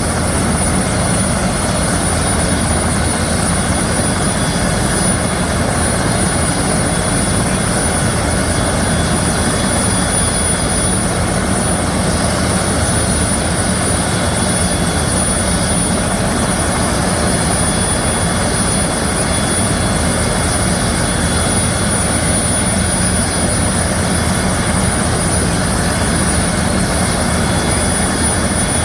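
Turbine engine of the Minnesota State Patrol aircraft N119SP running steadily at idle before takeoff. A constant high whine sits over a low rumble.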